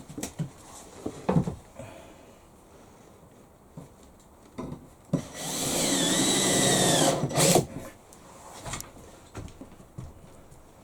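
A power drill runs for about two seconds, its whine dipping briefly in pitch under load, as it works into the wooden ceiling batons. A few short knocks and clicks come before and after it.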